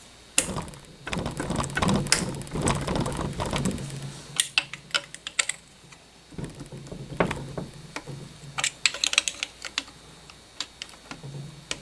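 Box-end wrench working a Loctited bolt on an engine's oil pump by hand: rapid metallic clicks and clinks of the wrench on the bolt and the metal parts. A dense run of clicking comes first, then shorter clusters every second or two.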